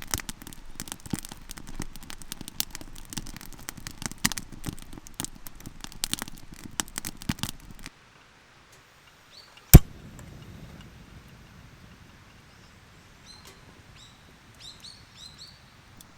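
Wood fire crackling and popping for about eight seconds, then stopping abruptly; a single sharp click follows, and a small bird chirps a few times near the end.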